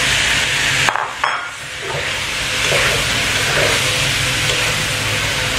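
Eggplant frying in hot oil in a wok, sizzling steadily while a metal spatula stirs and scrapes it around the pan. The sizzle drops for a moment about a second in, then carries on.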